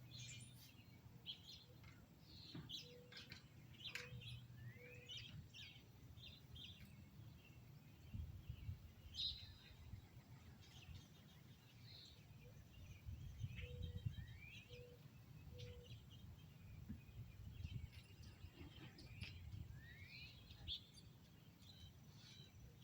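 Faint outdoor birdsong: several birds chirping, with short rising whistled notes scattered throughout. Twice a low call of three short notes sounds in the background, over a soft low rumble.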